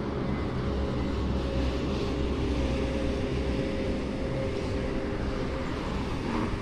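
A motor engine running steadily, a low rumble with a faint steady hum above it.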